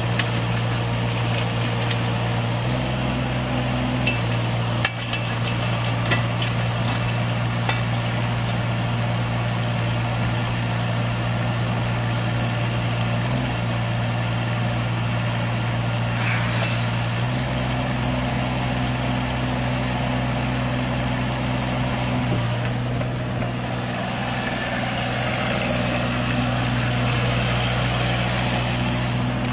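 Kubota mini excavator's diesel engine running steadily, its note stepping up and down a few times (about 3, 17 and 22 seconds in), with a few light clicks or knocks in the first several seconds.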